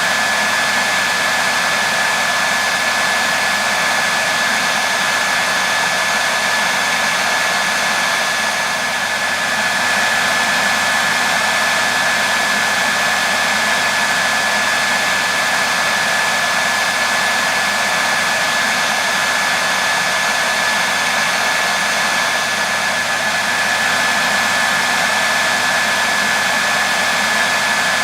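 Hair dryer running steadily on one setting: a constant rush of blown air with a steady high whine from the motor and fan.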